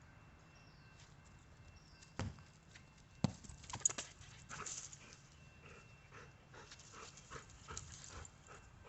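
A dog at play: a few sharp knocks and thumps about two to four seconds in, then a quick run of short repeated sounds, about three a second.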